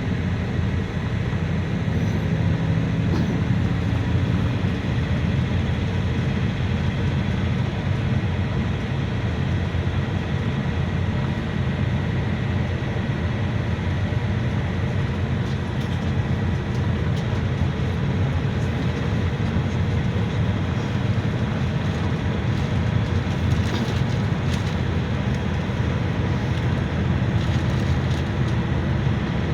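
GAZelle Next minibus on the move, heard from inside the passenger cabin: a steady engine drone with road and tyre noise.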